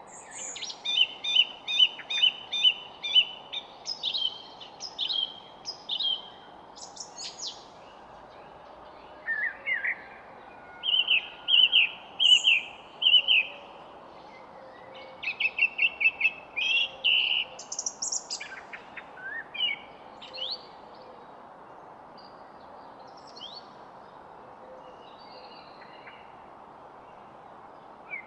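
Songbirds singing: phrases of quick repeated chirping notes in three bouts, then only a few faint calls in the last third, over a steady low background hiss.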